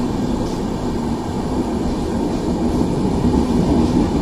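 Train pulling out, a steady low rumble of the wheels on the rails growing slightly louder.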